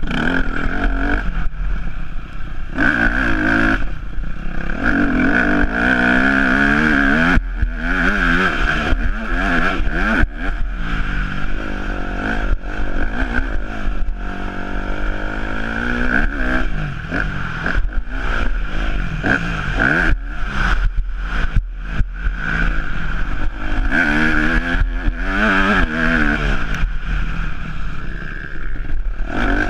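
Yamaha YZ250F's 250 cc four-stroke single-cylinder engine revving hard and falling off again and again as the motocross bike is ridden around a track, with short drops in revs between throttle openings. Clattering from the bike runs underneath.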